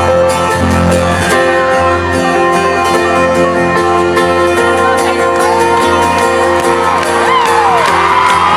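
Live folk-rock band playing an instrumental passage with plucked and strummed acoustic strings, banjo and a steady bass pulse. From about halfway through, audience whoops and shouts rise over the music.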